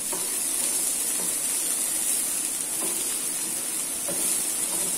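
Spring onions and carrot matchsticks sizzling steadily in a hot nonstick frying pan at medium heat, stirred with a wooden spatula.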